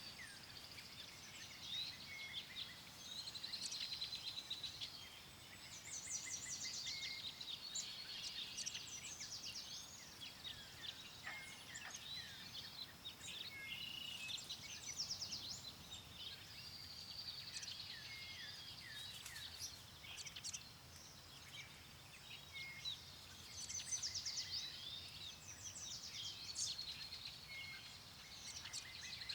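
Several songbirds singing and chirping over one another, with quick trills and high chirps throughout, over a faint, low wind.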